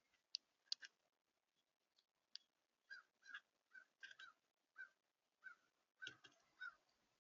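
Faint short bird calls, about a dozen spaced irregularly, with a few sharp clicks in the first second.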